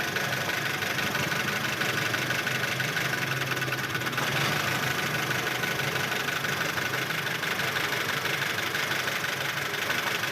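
Car engine idling steadily at the exhaust silencer, while it is being checked for a misfire.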